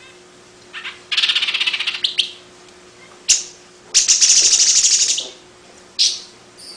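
Long-tailed paradise whydah chattering: two fast, buzzy rattles of about a second each, with short sharp call notes before, between and after them.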